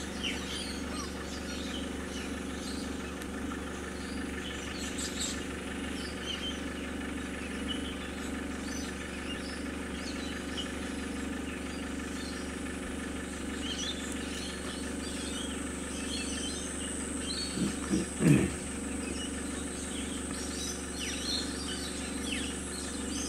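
A car engine idling steadily, a constant low hum, with small birds chirping over it. A steady high-pitched tone joins a little past halfway, and a brief louder sound with a wavering pitch comes about three-quarters of the way in.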